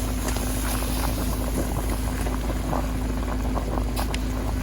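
A pot of soup broth boiling over a wood fire, bubbling with many small scattered pops, over a steady low rumble and a faint steady hum.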